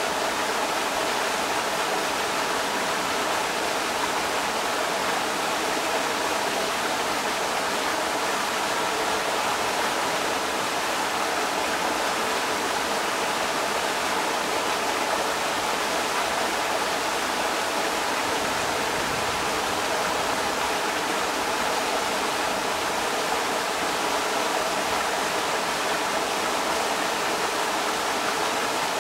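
Creek water rushing over rocks: a steady, unbroken rush.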